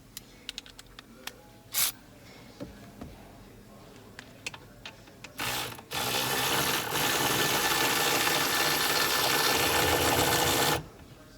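A few light clicks and knocks, then a power tool with a 14 mm socket spins in a short burst and runs steadily for about five seconds, backing out the long bolt at the back of a steering column, before it stops suddenly.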